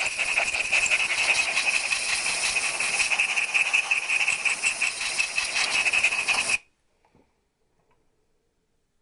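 A loud, steady hiss of air or gas, starting abruptly and cutting off suddenly about six and a half seconds in.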